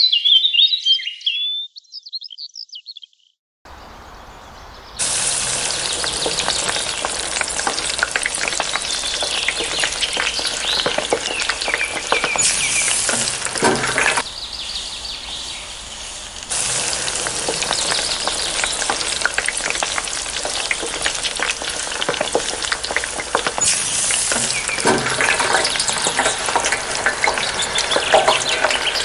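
Pieces of pangas catfish frying in hot oil in a miniature karahi: a steady sizzle with crackle that starts a few seconds in and eases for a couple of seconds about halfway through. A few bird chirps come at the very start.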